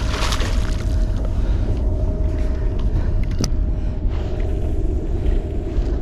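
Boat motor running steadily with a low rumble and a faint steady whine; a single sharp click about three and a half seconds in.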